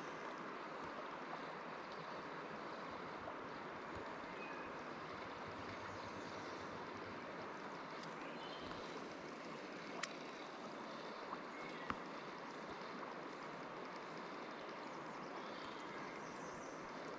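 Steady rush of flowing river water, with a few faint sharp clicks about ten and twelve seconds in.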